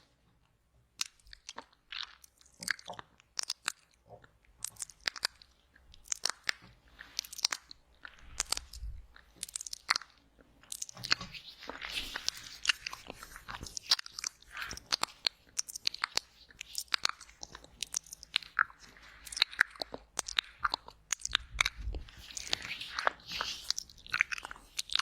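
Close-miked wet mouth sounds for ASMR: irregular wet clicks, smacks and licking noises, sparse at first and growing denser about halfway through.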